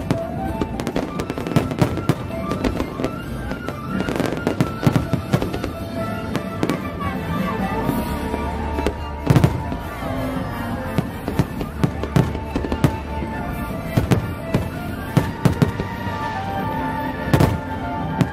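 Fireworks display: aerial shells bursting in rapid, irregular succession, many sharp bangs with the loudest about nine seconds in and again near the end. Music plays steadily underneath.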